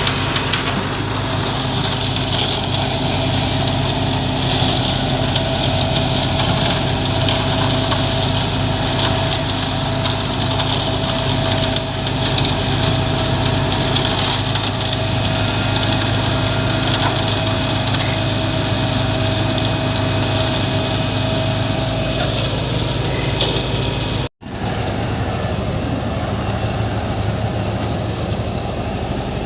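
Heavy diesel machinery engine running steadily, with a steady whine over it that fades out about 22 seconds in. The sound drops out for an instant at an edit about 24 seconds in, then engine noise carries on.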